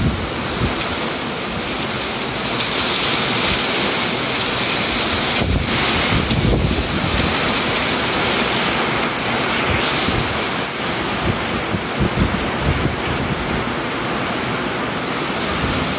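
Heavy storm rain and strong gusting wind buffeting the microphone, a steady loud rushing roar. A faint high whistle runs through it, dipping in pitch and rising again about midway.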